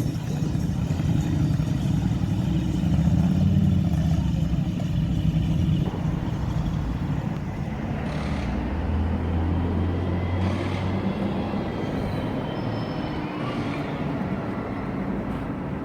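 Motor vehicle engines running, loudest over the first six seconds, then a steady low hum from about eight to eleven seconds in.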